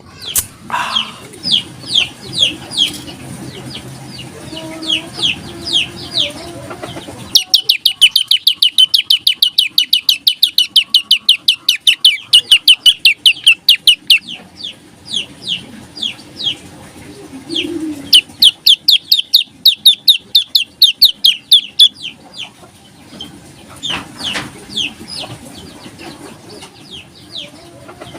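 Prenjak lumut songbird calling loudly: a string of sharp, high, falling notes, at first spaced out, then in long rapid runs of about five a second, with pauses between runs.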